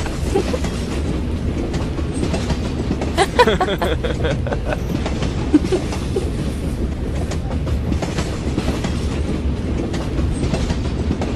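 Steady rumble and clatter of a moving train. A brief burst of a person's voice comes about three seconds in.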